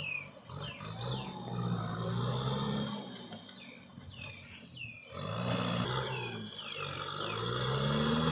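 Kubota tractor engine working under load while plowing in mud, its pitch rising and falling in repeated waves. Short high squeals fall in pitch over it. The engine drops lower and quieter for a couple of seconds in the middle.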